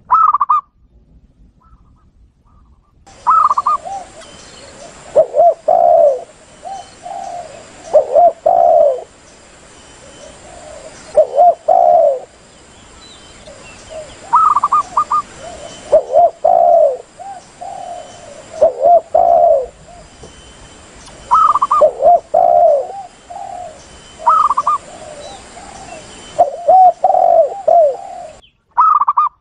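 Spotted doves and zebra doves calling, used as a hunter's lure recording. Short cooing phrases repeat every couple of seconds, some pitched higher and most lower, over a faint steady high hiss.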